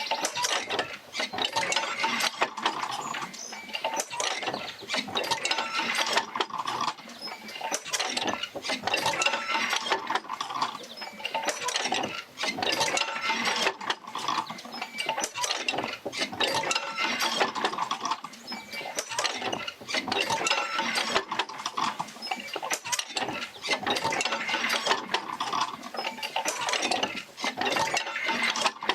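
Oil-field field wheel working back and forth as it drives the jerker lines, a dense run of mechanical clicks and clanks that swells and eases in a slow repeating cycle.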